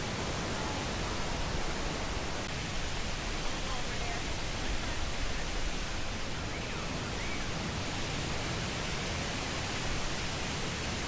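Waterfall rushing: a steady, even roar of falling water with no swells, with faint voices beneath it.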